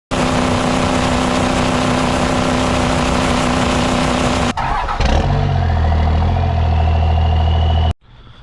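Ford 6.0 Power Stroke turbo-diesel V8 running hard at high revs, cut off abruptly about halfway through. A second stretch follows with a deep engine note and a slowly rising whine, and it ends suddenly near the end.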